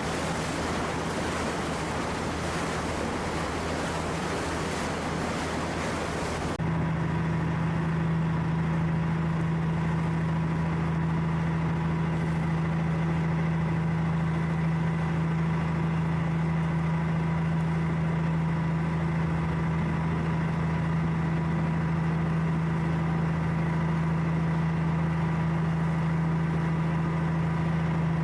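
Wind and surf noise for the first several seconds, then, after an abrupt cut, a steady engine hum with a low drone and a few constant higher tones.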